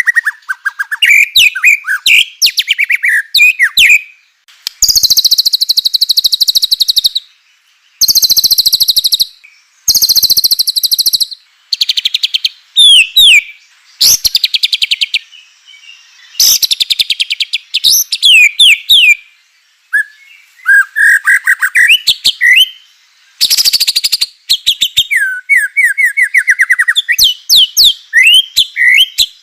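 White-rumped shama singing loudly in phrases of one to three seconds with short pauses between them. Fast, dry rattling trills alternate with quick whistled notes that slide up and down.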